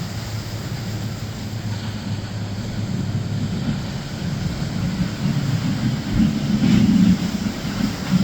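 Engines of a center-console boat running as it passes close by: a steady low drone that grows louder to a peak near the end.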